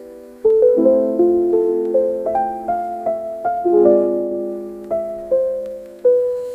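Background piano music: a gentle melody of single notes and chords, each struck and left to fade, a new note starting every half second or so after about half a second of quiet at the start.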